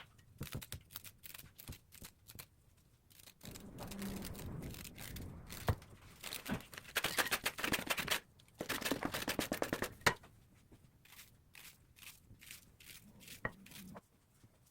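Handling noises: a run of sharp clicks and taps, with longer scraping, rustling stretches in the middle.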